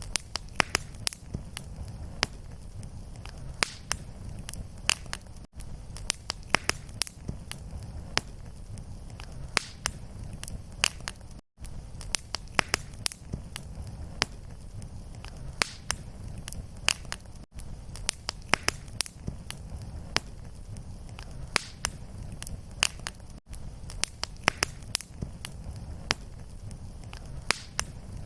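Fireplace fire crackling: dense sharp pops and snaps over a steady low rumble of the flames. A brief dropout to silence comes about every six seconds where the looped recording restarts.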